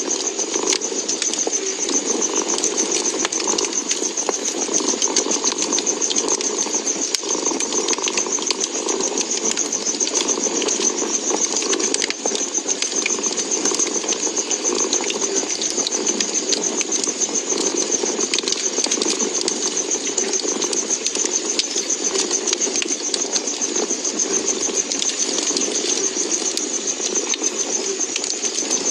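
A cat purring steadily and without a break, mixed with the small pops and crackles of a wood fire.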